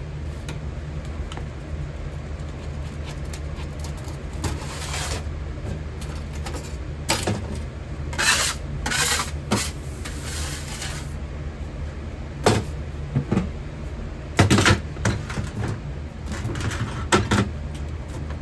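Metal-melting furnace running with a steady low rumble, while tools and metal pieces are handled with scattered knocks, clanks and short scraping rushes.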